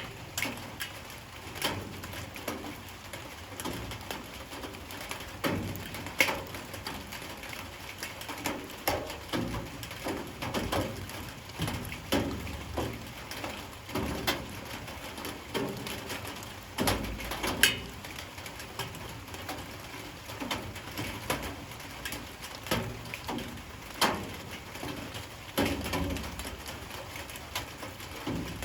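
Light rain falling steadily, with irregular drips tapping loudly on a hard surface every second or so.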